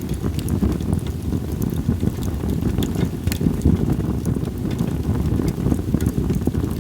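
Campfire of split sawtooth oak (kunugi) logs crackling, with many scattered sharp pops, over a steady low rumble of wind on the microphone.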